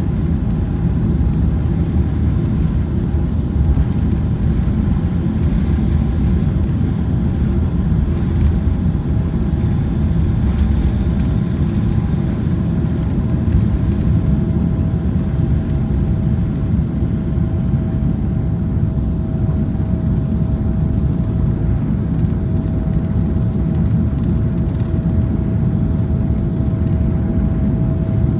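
Boeing 777-300ER's GE90 engines at takeoff thrust, heard inside the cabin: a steady deep rumble with a faint whine on one pitch that edges slightly higher in the second half.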